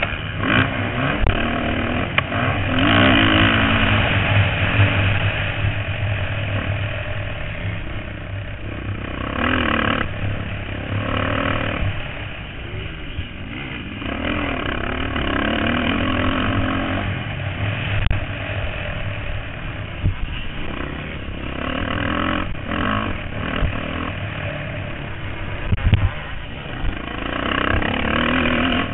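Motocross bikes racing: several dirt-bike engines revving up and down as riders work the throttle around the track.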